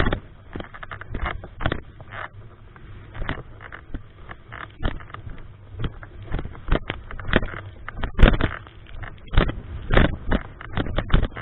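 Strong typhoon wind buffeting the microphone in irregular gusts, with a steady low rumble underneath.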